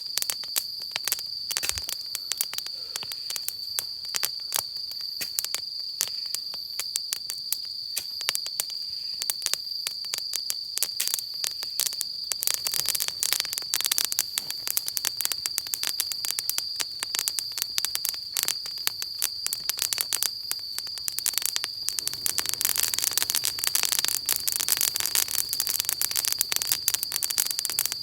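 Wood fire crackling with a dense run of sharp pops and snaps, which grow busier about halfway through and again near the end. Behind it is a steady high-pitched insect chirr, like crickets.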